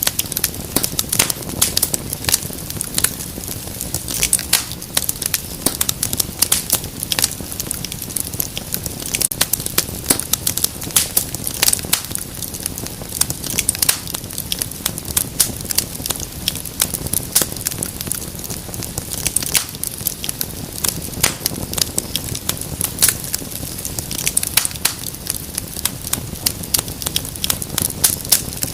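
Wood fire crackling, with dense irregular pops and snaps over a steady soft hiss.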